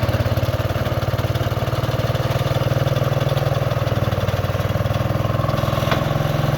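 Engine of an Oakes Rounder L-500 skid steer idling steadily with an even pulse.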